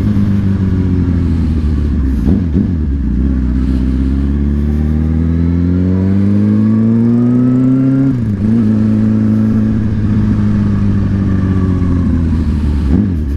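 Motorcycle engine under way, its pitch climbing slowly as it accelerates, then dropping sharply about eight seconds in at a gear change and holding steady; shorter dips about two seconds in and near the end.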